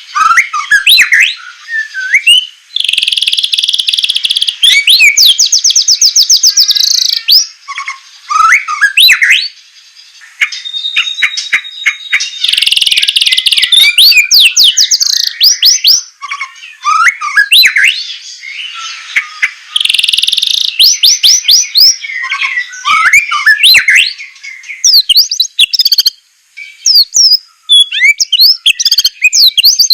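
White-rumped shama (murai batu) singing loud, fast whistled phrases and rapid repeated-note trills. Three times it breaks into a harsh rasping 'besetan' call about a second and a half long, each followed by a quick run of sharp notes.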